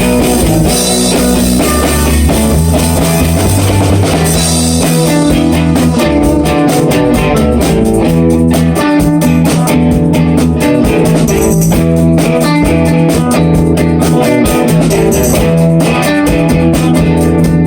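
Rock band jamming on a riff: electric guitar, bass and a drum kit playing loud and steady, with no singing.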